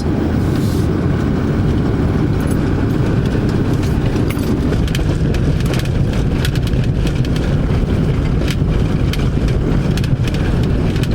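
Car being driven: steady road and engine noise inside the cabin, with scattered light clicks and ticks.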